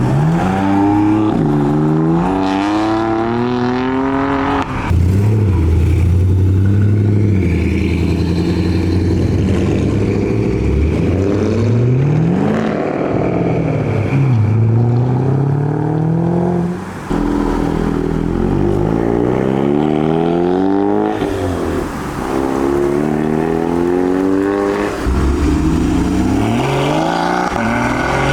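High-performance car engines revving and accelerating hard away, the note climbing and dropping back again and again through gear changes, with several cars in turn.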